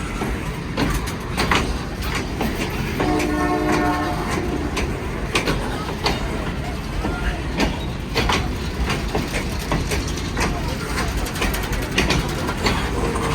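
Train cars rolling along the track, a steady low rumble with repeated sharp clacks from the wheels passing over rail joints. A short pitched tone sounds about three seconds in.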